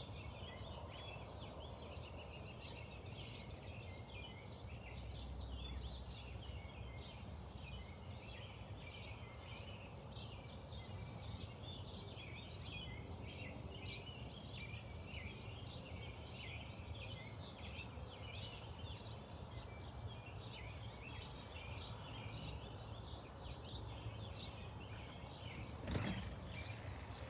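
Several songbirds chirping and singing continuously over a steady low background rumble, with a single sharp knock near the end.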